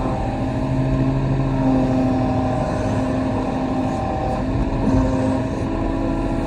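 Kobelco SK35 excavator's diesel engine running steadily under working load, its note shifting slightly as the hydraulics take up the work.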